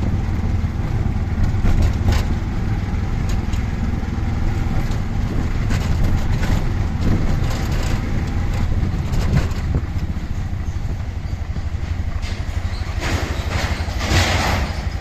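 Auto-rickshaw's small engine running steadily during the ride, with pulsing low engine noise, road noise and surrounding traffic. A short burst of hiss comes near the end.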